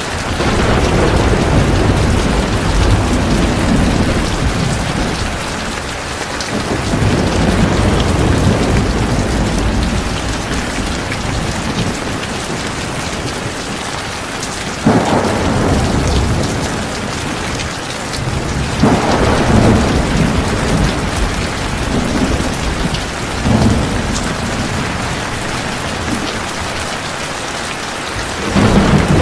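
Heavy rain falling steadily, with repeated rolls of thunder. Rumbles swell in the first few seconds and again around seven seconds in, and further peals break in suddenly about halfway through, a few seconds later, and near the end.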